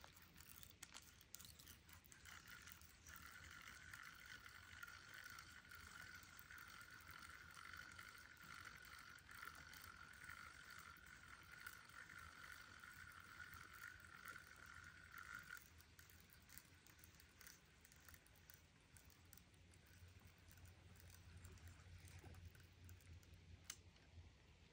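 Faint whirring of a spinning reel being cranked to retrieve line, from about two seconds in until about fifteen seconds in; otherwise near silence.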